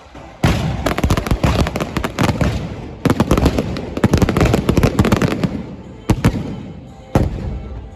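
Fireworks going off: a dense barrage of rapid cracks and bangs starting about half a second in, fading out after about six seconds, then two single loud bangs near the end.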